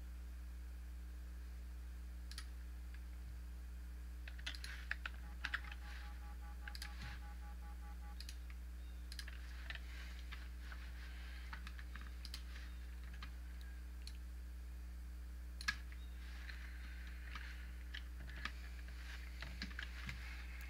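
Scattered clicks from a computer mouse and keyboard, some in quick little clusters, over a steady low hum.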